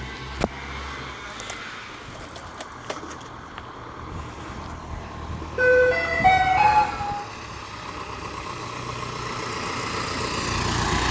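A short chiming melody of a few stepped notes, about halfway through, over steady background noise that slowly swells toward the end.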